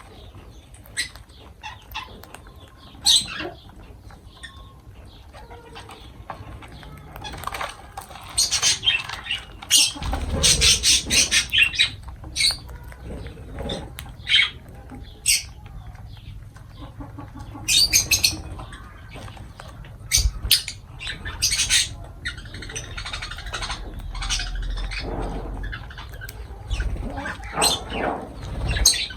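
Lovebirds chirping and squawking in short, sharp calls, coming in busy clusters with quieter gaps between, and some low rumbling in places.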